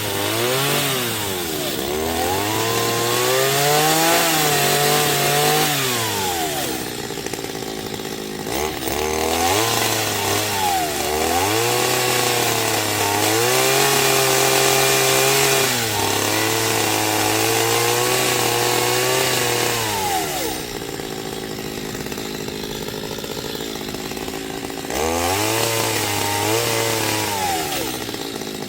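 Two-stroke chainsaw revving up and holding speed through several cuts, then dropping back to a quieter idle between cuts, about five cycles in all; the longest held run lasts some eight seconds.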